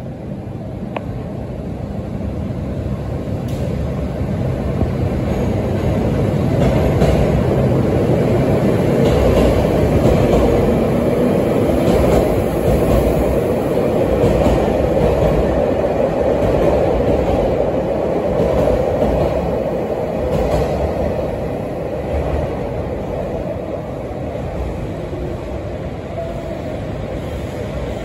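JR Hokkaido 731 series and 721 series electric trains, coupled together, pulling out: motors and wheels on the rails grow louder as the cars pass, then fade slowly as the train leaves.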